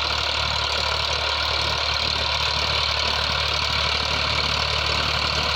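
Farmtrac 60 PowerMaxx T20 tractor's diesel engine running steadily, with an even, unchanging hum.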